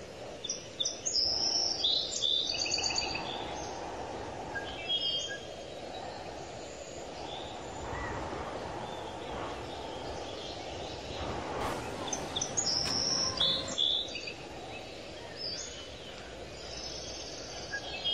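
Small birds chirping in quick high calls, in clusters near the start, about five seconds in and again later on, over a steady low outdoor background noise.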